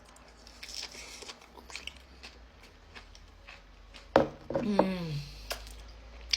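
A person eating a chocolate-dipped strawberry with pistachio kunafa close to the microphone: crunching and chewing with scattered clicks. About four seconds in there is a sharp click, followed by a short hum that falls in pitch.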